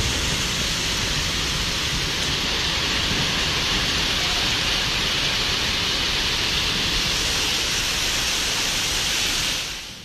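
Dense, steady hiss of heavy rain coming down hard, fading out just before the end.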